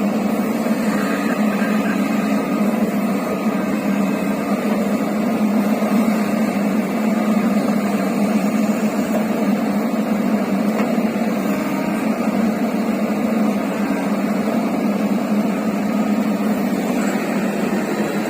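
Heavy diesel engine running steadily: an even, continuous drone that holds its pace throughout.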